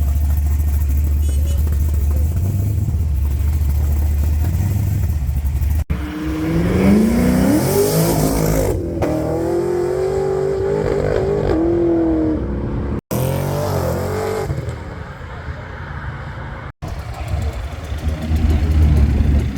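Car engines: a deep steady idle, then after an abrupt cut an engine accelerating, its pitch rising and then holding with small wobbles. Further cuts bring another bend in pitch and a low idle again near the end.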